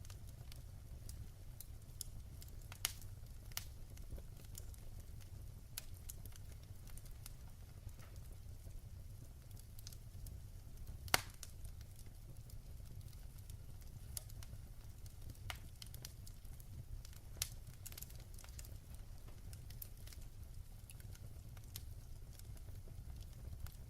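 Wood fire burning in a fireplace: a steady low rumble with irregular sharp crackles and pops scattered throughout, one louder pop about eleven seconds in.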